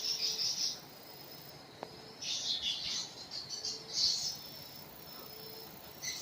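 Swiftlets twittering in bursts of high, rapid chirps, strongest at the start, about two seconds in and again around four seconds.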